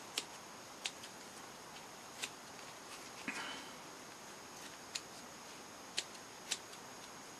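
Scissors snipping through foam: about seven short, sharp snips at irregular intervals, with a brief rustle of the foam a little past three seconds in.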